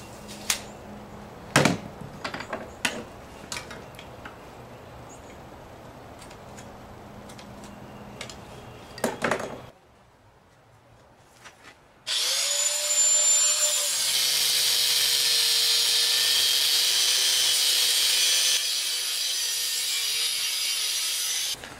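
Knocks and clicks of steel being handled, then about twelve seconds in an angle grinder starts and runs steadily, cutting steel angle. Its whine drops a little as the disc takes the load, and it stops just before the end.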